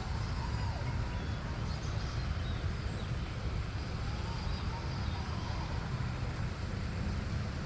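Outdoor ambience: a steady low rumble with a few faint, short bird chirps above it.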